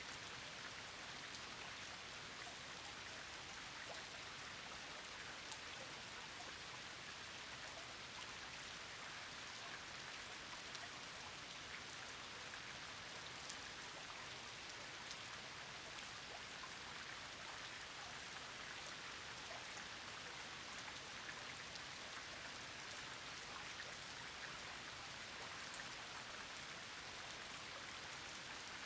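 Steady rain falling on a pond: an even patter with a few sharper single drop taps scattered through it.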